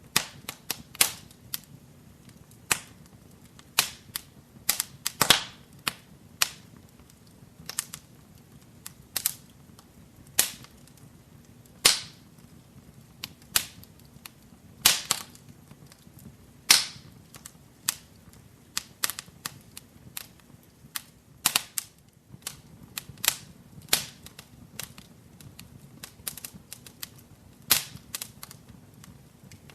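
Wood fire burning in a fireplace, crackling with irregular sharp pops and snaps, some in quick clusters, over a faint low steady hiss of flame.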